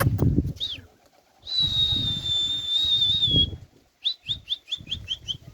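A long, steady, high whistled note with a slight waver, then a quick run of short falling chirps at about six a second, over low rustling, flapping noise.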